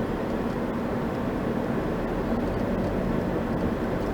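Steady engine and tyre noise of a moving car heard from inside the cabin, with a low even hum.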